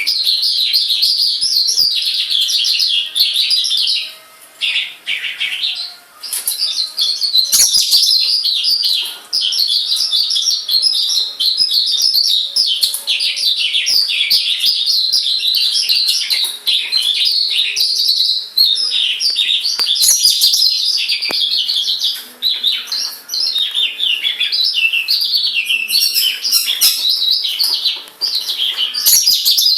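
Pet oriental lark singing a long, fast stream of chirps and trills, with a few brief pauses.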